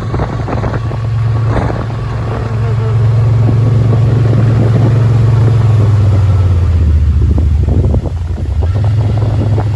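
Yamaha Wolverine side-by-side's engine running as it drives, a loud steady hum whose pitch drops for a couple of seconds past the middle, then rises again as it speeds back up.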